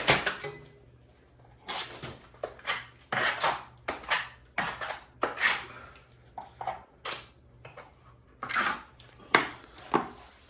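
Metal knife scraping fast-setting hot mud (setting-type joint compound) out of a pan and spreading it on a plaster wall in a series of short, irregular scrapes.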